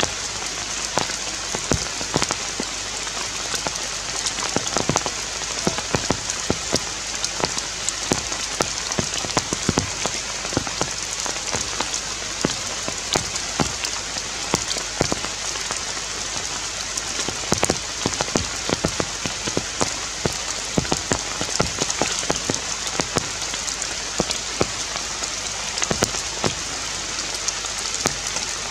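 Rain falling on forest leaves: many drops ticking irregularly close by over a steady high hiss.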